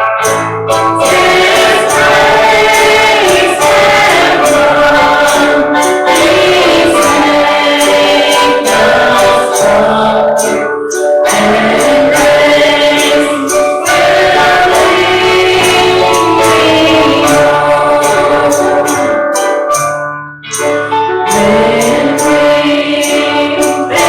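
A church congregation singing a gospel hymn with instrumental accompaniment and percussion. The sound dips briefly about 20 seconds in.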